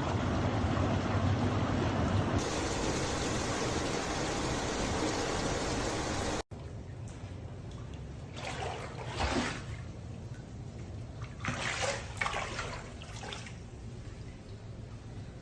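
Running water: an even, loud rush for about six seconds, then after a sudden cut a quieter flow with a few brief swells.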